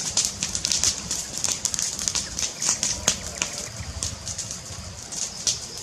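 Wood fire crackling: a dense run of irregular pops and snaps over a low rumble.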